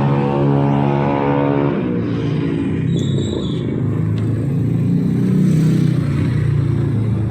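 Street traffic: a vehicle engine's steady hum gives way about two seconds in to the rumble of passing cars and motorcycles, with a brief high-pitched squeal about three seconds in.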